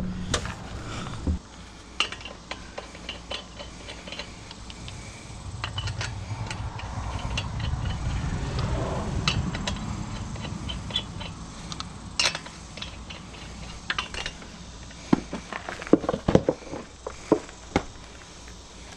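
Intermittent metal clinks, rattles and knocks from hand work refitting a pickup's front wheel, with a low rumble for several seconds midway and a burst of sharper knocks near the end.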